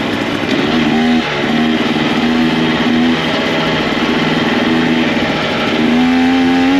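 Two-stroke KTM 300XC dirt bike engine rising and falling in pitch in short bursts under throttle, then climbing and holding near the end, mixed with background music.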